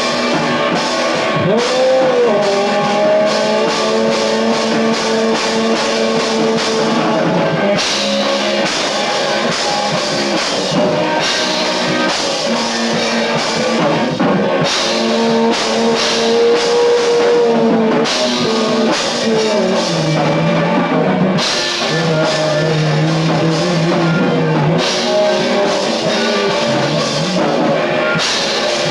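Lo-fi rock band playing: drum kit and guitar, with long held notes that bend in pitch over the top. The cymbal strokes drop out and come back several times.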